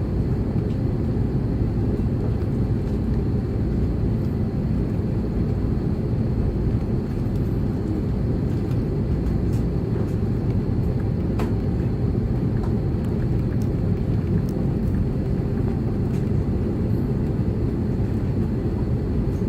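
Steady low rumble of cabin noise inside an Airbus A330-300 with Rolls-Royce Trent 700 engines, even in level throughout, with a faint high whine above it.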